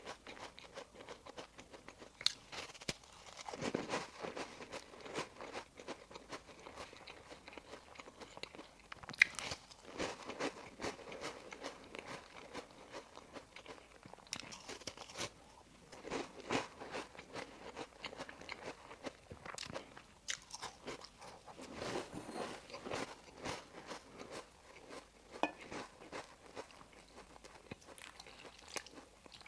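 Close-miked eating of bakery bread and pastries: biting, crunching and chewing in bursts, with many short mouth clicks. The sharpest click comes about nine seconds in.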